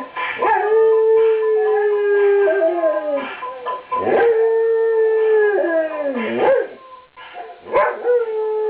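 A dog howling in long drawn-out notes: three howls, each sliding up into a held tone for a couple of seconds, the middle one falling away at its end.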